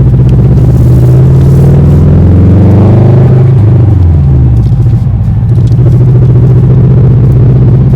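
Car engine and exhaust rumbling under acceleration, the pitch climbing for about three seconds, then falling away and settling into a steady drone.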